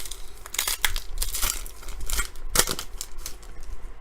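Trading card pack wrapper being torn open and crinkled by hand, in a few sharp bursts of rustling.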